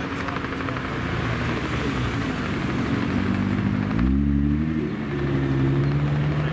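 Car engine running steadily, then revving up about four seconds in, with a burst of low rumble, before holding a higher steady note.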